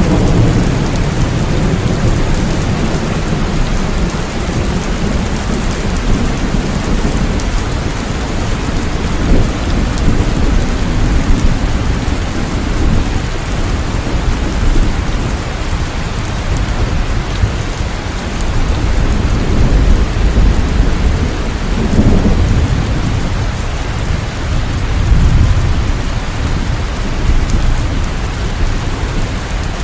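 Steady heavy rain, with deep low rumbles swelling and fading several times.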